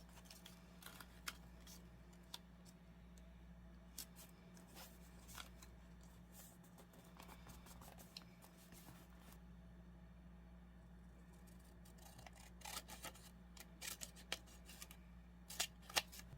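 Faint paper-crafting sounds: scissors snipping and paper being handled, with scattered soft clicks and a quick run of louder cuts near the end, over a low steady hum.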